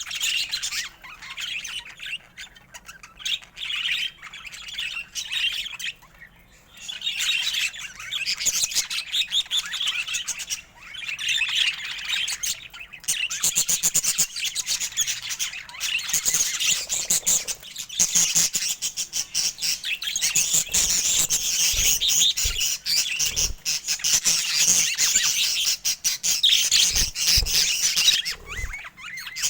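Budgerigars chirping and warbling in a continuous busy chatter, with rapid clicking notes packed in from about halfway through and a few soft low thumps near the end.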